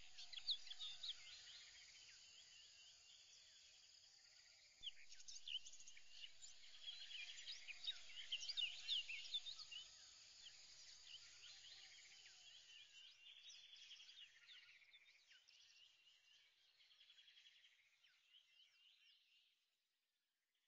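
Faint chorus of birds chirping: many short, high chirps overlapping, louder from about five seconds in and fading out near the end.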